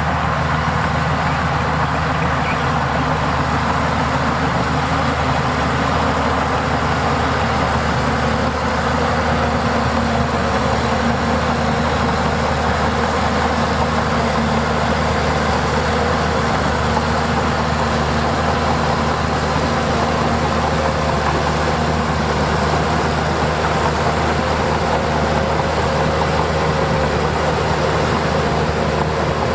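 Heavy diesel engine of earth-moving machinery running steadily under load, with a slight rise in pitch near the end.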